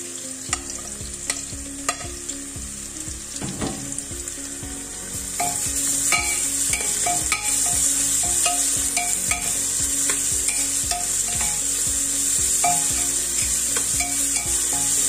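Sliced onions and ginger-garlic paste frying in oil in an aluminium pressure cooker: a steady sizzle, with the spatula scraping and knocking against the pot as it is stirred. The sizzle gets louder about five seconds in.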